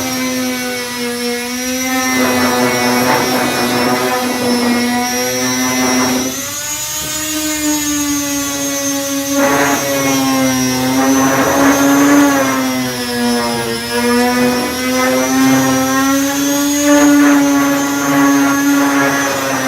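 A random orbital sander with a 240-grit disc runs continuously, its motor tone wavering slightly in pitch as pressure on it changes. Several times over it comes a rasping scrub of the disc on body filler.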